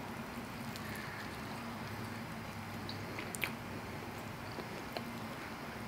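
A person chewing a mouthful of baked macaroni and cheese on a pizza crust, with a few faint wet mouth clicks over a steady low hiss; the clearest click comes a little past halfway.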